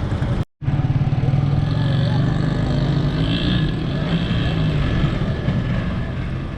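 Tractor diesel engine running steadily, its pitch wavering slightly, after a brief cut about half a second in.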